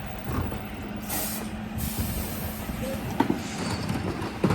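Dennis Elite 6 refuse truck's diesel engine running with a steady low hum, and two short air-brake hisses about one and two seconds in. A knock sounds near the end.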